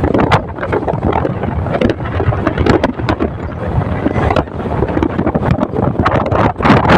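Wind buffeting hard on the microphone of a moving motorcycle, in loud irregular gusts over the running noise of the ride.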